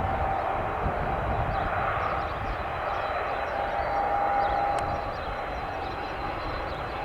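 Jet airliner engines running: a steady whine over a broad rushing noise, a little louder around the middle and easing off after about five seconds.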